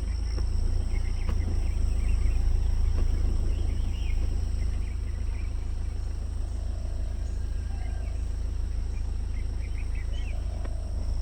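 Outdoor wild ambience: a steady deep rumble, with a steady high-pitched drone and scattered faint chirps.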